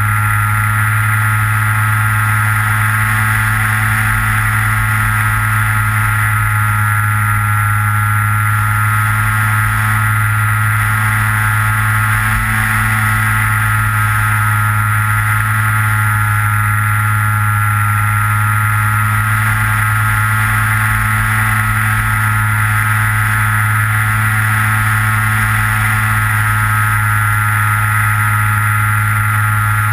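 Electric motor and propeller of a Skywalker FPV plane running at a steady throttle, heard from the onboard camera as a constant drone with a high whine, over a rough wind rumble on the microphone.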